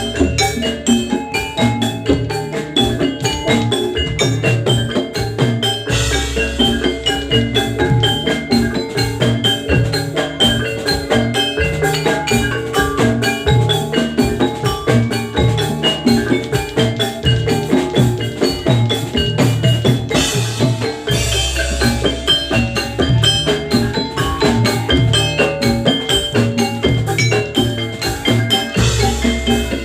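Instrumental Javanese gamelan music for jathilan: metallophones playing a dense run of struck notes over drumming, with a deep low boom a few times.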